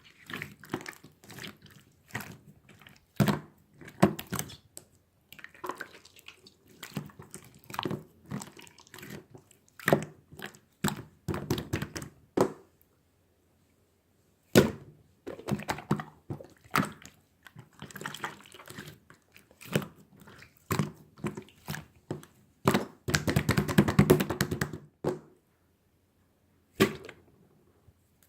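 Irregular wet, squishy clicks and squelches in a small room, in uneven bursts with short pauses.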